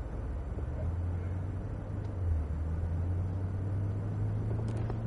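Cadillac CTS-V's supercharged 6.2-litre V8 running at low revs as the car pulls away slowly, heard from inside the cabin: a low, steady drone that climbs slightly in pitch near the end.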